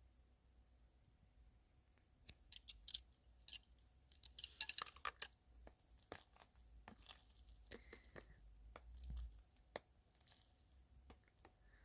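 Small hard objects being handled and set down: a cluster of sharp clicks and clinks about two seconds in, then softer, scattered taps and rustling.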